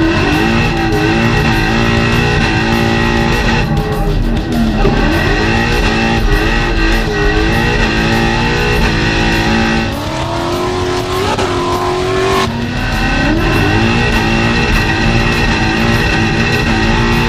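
Ford Mustang RTR's Coyote V8 running hard through an X-Force stainless exhaust dumped at the rear diff, its revs dipping and climbing again several times as it drifts. Rock music with guitar plays underneath.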